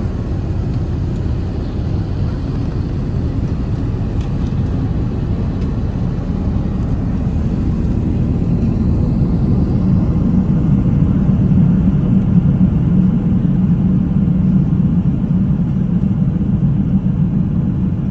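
Steady low rumble of an Airbus A380-861's engines and airflow heard inside the passenger cabin, growing a little louder partway through.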